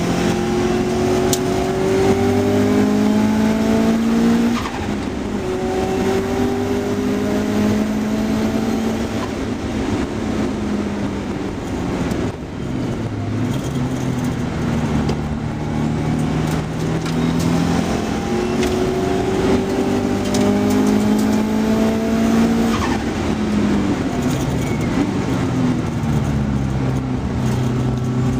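Car engine driven hard around a race circuit, heard from inside the car: the revs climb in each gear and drop back at each gear change, ease off about twelve seconds in, and fall for a few seconds near the end before picking up again.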